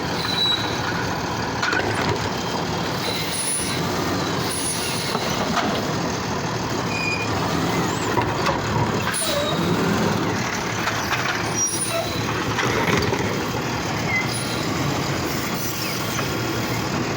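Garbage truck running: a steady mechanical noise that does not let up.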